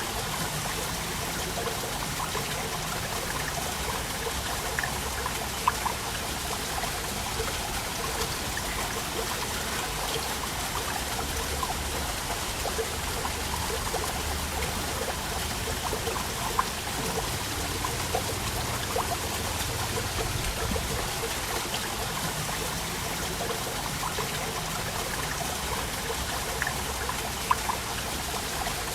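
Waterfall: water falling and splashing in a steady rush, with the odd small splash standing out.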